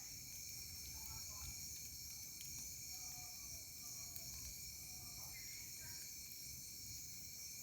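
Crickets and other insects trilling steadily in a night chorus, in several high, unchanging pitches, with a few faint falling calls underneath.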